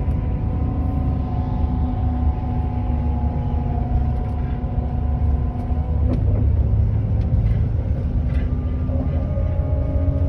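Inside a moving coach bus on the highway: a steady low engine and road rumble with a droning engine note that shifts pitch a little about six and nine seconds in.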